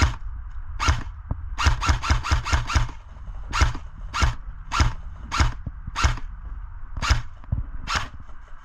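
Footsteps crunching on dry ground or brush: a quick run of about seven steps a second and a half in, then a steady walking pace of roughly one step every 0.6 seconds.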